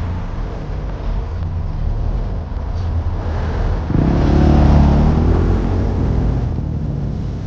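Car engine running close by with a steady low rumble, swelling louder for about two seconds halfway through.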